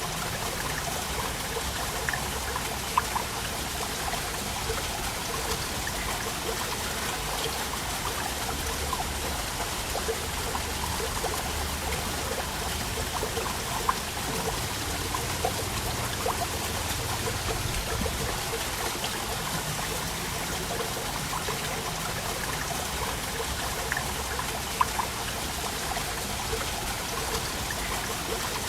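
Waterfall water flowing and splashing: a steady rush with scattered sharper splashes and drips.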